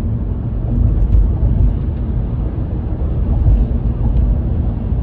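Loud, steady low rumbling noise with no clear tone, flickering in level throughout.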